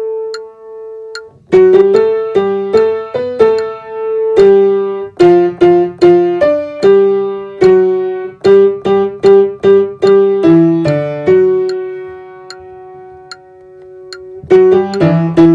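Piano playing the alto line of a hymn, note by note with a lower part beneath. It stops briefly about a second in and holds one long note past the middle. Faint high ticks keep time about once a second.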